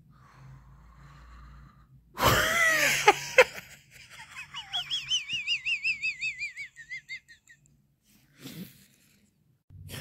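Birds calling: a loud harsh squawk about two seconds in, then a run of high, warbling, trilled whistles.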